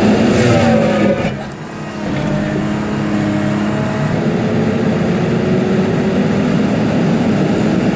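Diesel engine of heavy equipment running steadily, easing off briefly about a second and a half in, then holding steady.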